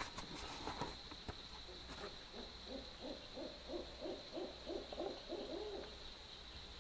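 An owl hooting: a quick run of about nine evenly spaced low hoots lasting some three and a half seconds, starting a little over two seconds in.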